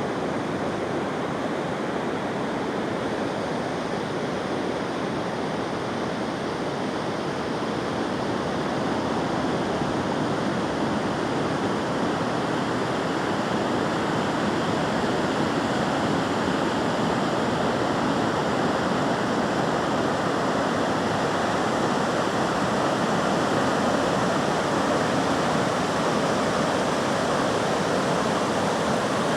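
Steady rush of moving water with no pauses or distinct swells, growing slightly louder about a third of the way in.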